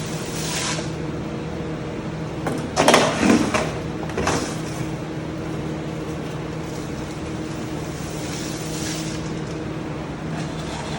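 Dry powdered hydroponic nutrient poured and scooped into a plastic container, a loud rustling pour about three seconds in and a shorter one a second later, over a steady machine hum.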